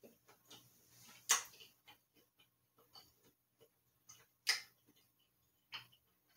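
Biting and chewing a piece of milk chocolate and hazelnut bark: two sharp crunches, about a second in and again about four and a half seconds in, a smaller one near the end, with small chewing clicks between.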